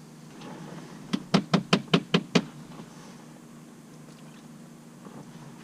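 Six quick, sharp knocks on a hard surface, about five a second, starting about a second in.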